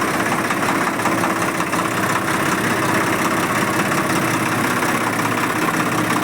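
Swaraj 855 tractor's three-cylinder diesel engine running steadily at idle, with a fast, even chugging from its firing strokes.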